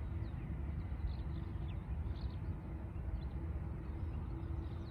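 Airliner engines running in the distance: a steady low rumble with a droning hum. A few faint bird chirps sound over it.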